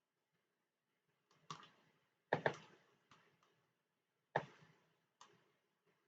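Irregular sharp clicks at a computer desk, some single and some in quick pairs, with the loudest pair about two and a half seconds in.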